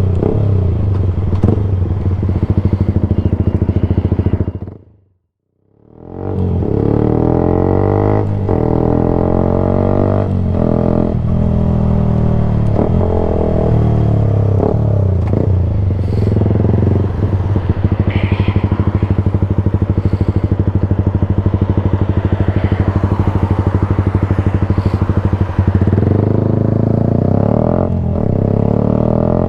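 Yamaha YZF-R sport bike's engine running loud through an open Black Widow exhaust can with no baffle, its pitch rising and falling as the rider revs and changes gear. The sound briefly fades out and back in about five seconds in.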